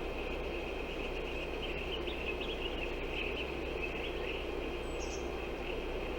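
Steady outdoor ambience: a constant noisy hiss with a low hum underneath, and many small, high chirps from birds or insects scattered through it.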